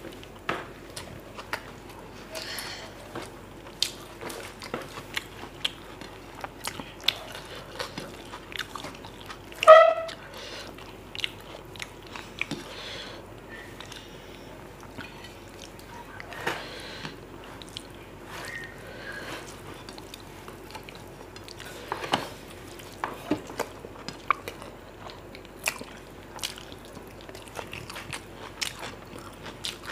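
Close-up mouth sounds of a person eating mutton biryani by hand: chewing with many small wet clicks. About ten seconds in there is one brief, loud pitched sound.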